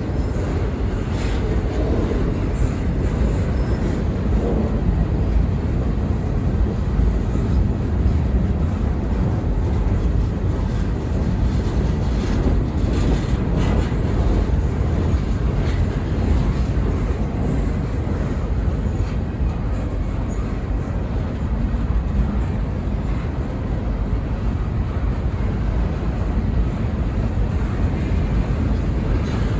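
Freight train rolling past: a steady low rumble of railcars on the track, with a few faint clicks.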